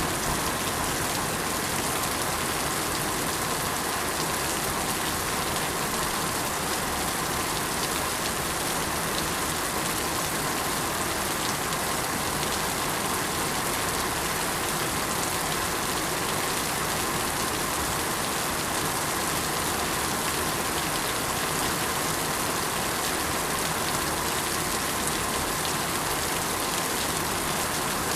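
Steady rain falling, an even continuous hiss of many raindrops with no single drops or thunder standing out.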